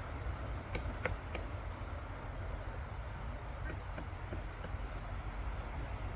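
Woodpecker pecking at bark, a scattering of sharp irregular taps over a low steady rumble.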